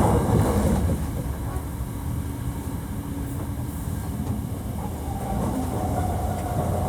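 Running noise of a Hankyu 1300 series train with a Toyo IGBT inverter drive, heard from inside the car: a steady low rumble of wheels on rail, with faint steady inverter tones, one coming in about five seconds in. This unit is known for its unusual motor noise.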